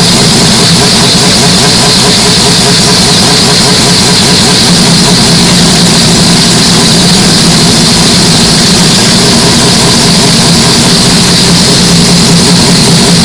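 Mazda 767B's four-rotor Wankel engine running at a fairly steady note, the recording heavily boosted and distorted.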